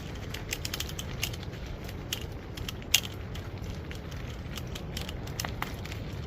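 Storm wind rumbling on a phone's microphone, with many scattered crackling clicks and one sharper click about three seconds in.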